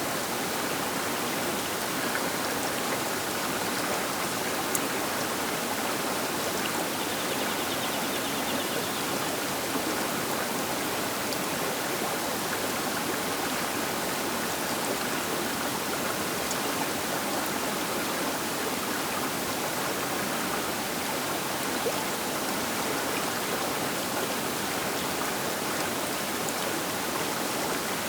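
Rushing river water, a steady, even hiss and rush of flowing water from the bank of a large river, with a few faint splashes and ticks.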